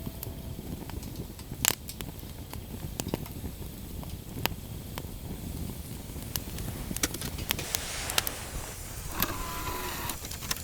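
Wood campfire crackling, with scattered sharp pops over a steady low rumble; one pop a little under two seconds in is louder than the rest.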